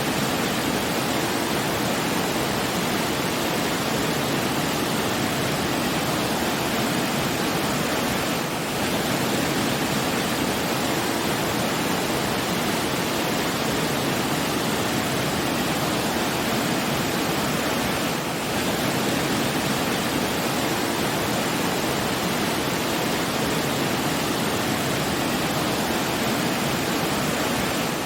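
Steady rushing noise of falling or flowing water, even and unbroken, dipping slightly twice.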